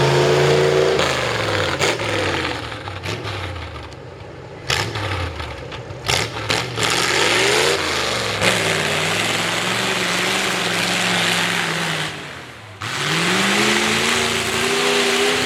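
V8 mud-truck engine with open upright headers, revving hard. Its pitch rises and falls several times, and sharp cracks come a few seconds in. The revs drop off briefly near the end, then climb steadily again.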